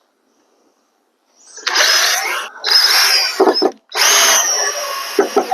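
Power drill driving screws into the wood framing: three runs of about a second each, starting about a second and a half in, with a high whine and short pauses between them.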